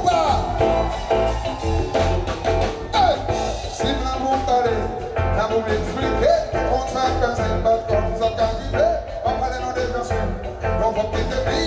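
Live band music with a steady beat and heavy bass, and a melody line that slides up and down in pitch.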